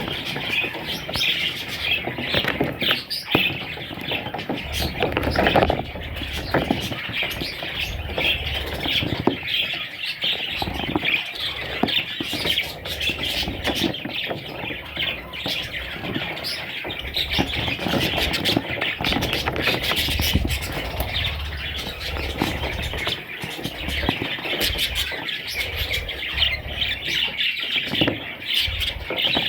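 Budgerigars chattering and warbling continuously, a dense run of quick chirps and squawks.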